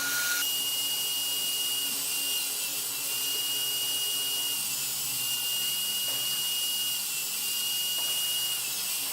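Router motor coming up to speed and running with a steady high whine, routing a groove along the bottom of cedar tray sides to take the tray bottom.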